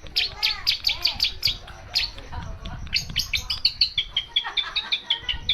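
Long-tailed shrike (cendet) singing a fast chattering run of sharp high notes, several a second, mixed with lower arching whistles; its song is filled with mimicked calls of other birds.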